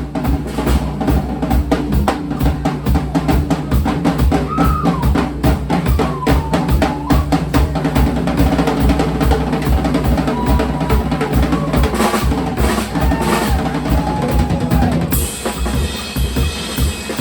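Live band music driven by a drum kit: a steady kick-and-snare beat with a bass line and a melody that slides up and down in pitch. About 15 seconds in the sound turns brighter, with more cymbal or high-end wash.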